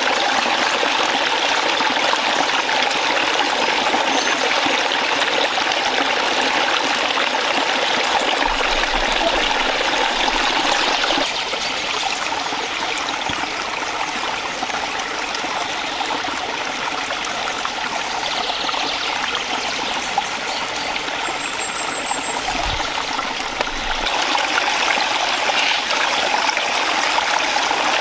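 Stream water running with a steady rushing and trickling, a little softer through the middle stretch.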